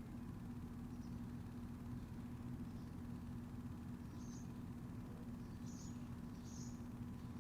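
Backyard ambience: a steady low hum under short, high chirps from a small bird, a few times with gaps, two close together near the end.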